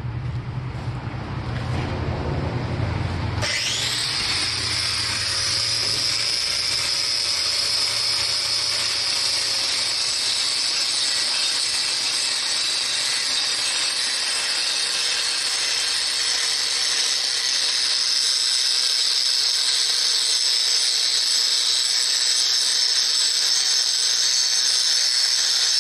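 Power grinding wheel running, then biting into a pipe about three and a half seconds in and grinding steadily along a groove to widen it, with a faint steady motor tone under the grinding noise.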